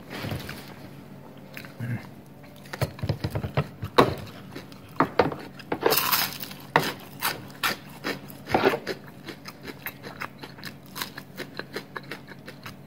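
Close-up crunching and chewing of a fried corn fritter (bakwan jagung), with a loud crackling bite about six seconds in and many short crunchy clicks of chewing around it.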